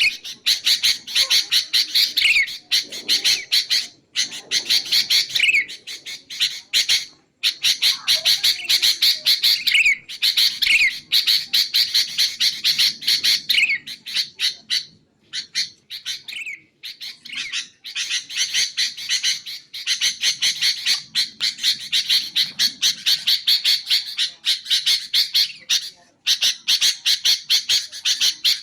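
Sooty-headed bulbul (kutilang) chattering: long strings of rapid, harsh repeated notes with brief pauses between them, several ending in a falling slurred note.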